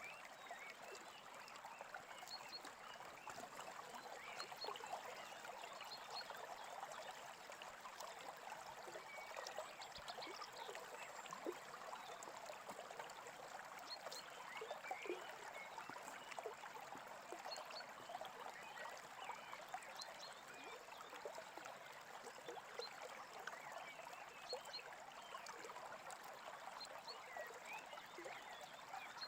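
Small stream running steadily over stones, with scattered faint bird chirps.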